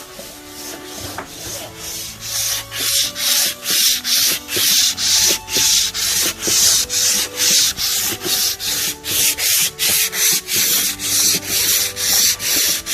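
Teakwood being sanded by hand in quick back-and-forth strokes, about two a second. The strokes start faint and grow loud about two seconds in.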